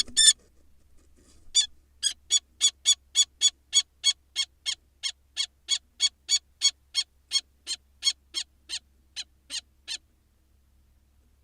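Kestrel giving a long series of short, sharp calls, about three a second, that stops near the end: a defensive alarm call at a barn owl in her nest box.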